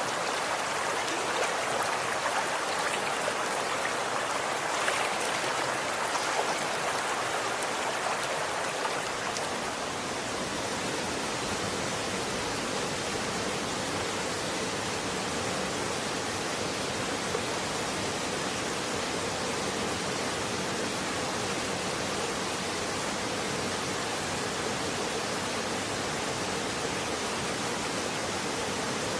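Running water flowing steadily, a dense even rush. It is a little louder and more uneven for about the first ten seconds, then settles to a smoother, steadier rush.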